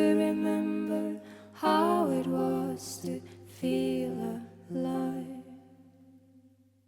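Female voice singing a few short, drawn-out closing notes without words over a steady low held note. The music fades out to nothing near the end as the song finishes.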